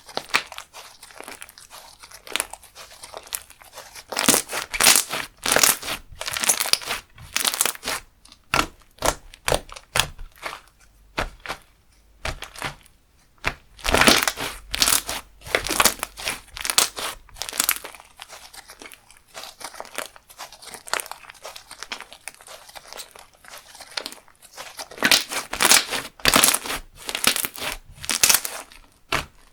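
Slime being squeezed, stretched and pressed by hand, making a string of short sticky bursts that come in busy runs with quieter spells between.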